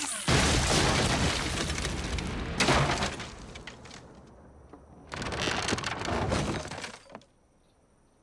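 Cartoon crash and breaking sound effects as a stage act falls apart. The music cuts off with a sudden crash about a quarter-second in, which clatters away; a second sharp crash comes near three seconds, and a further burst of noise follows from about five to seven seconds before it goes almost silent.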